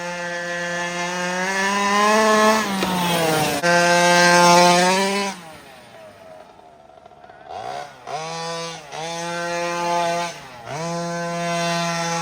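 36cc two-stroke petrol engine of a 1/5-scale Rovan RF5 RC rally car revving hard in throttle bursts. It makes two long runs with the pitch dropping between them, eases off for a couple of seconds, then gives a string of shorter blips.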